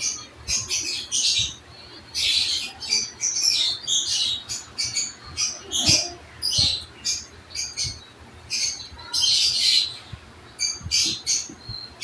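A small pet bird chirping and squawking in rapid, high-pitched bursts of short notes, with brief pauses between clusters. A few soft low knocks sound under the chirping, the clearest about halfway through.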